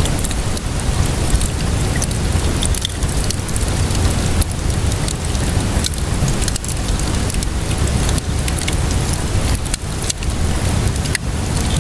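Steady rainfall with a deep low rumble, mixed with a wood fire crackling, its many small sharp pops scattered irregularly throughout.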